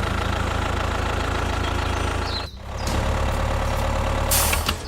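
Vehicle engine running steadily with a low, even rumble. It drops out briefly about halfway and comes back, and a short hiss sounds just before the end.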